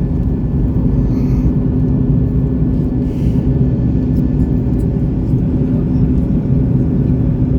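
Airliner cabin noise during the climb after takeoff: the engines' loud, steady drone with a constant hum over a low rumble.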